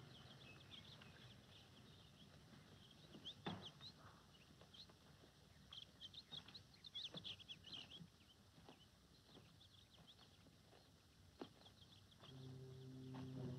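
Near silence with faint, scattered bird chirps and a few soft footsteps on stony ground. Low bowed strings fade in near the end.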